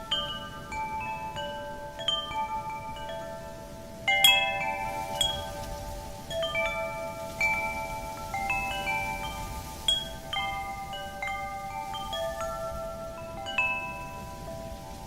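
Wind chimes ringing: metal tubes struck at irregular moments, several clear pitched tones overlapping and fading slowly, with one sharper cluster of strikes about four seconds in. Faint wind noise lies underneath.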